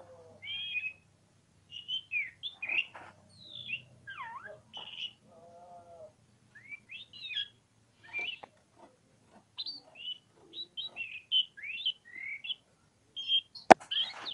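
Oriental magpie-robin (kacer) singing a varied, rapid run of chirps, whistled slurs and trills. A sharp click sounds near the end.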